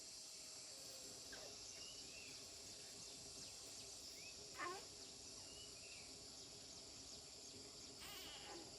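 Faint, steady drone of insects such as crickets, with a few brief chirps now and then.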